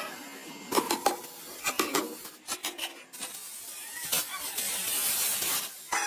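A few light clinks and knocks, then a steady hiss for about three seconds.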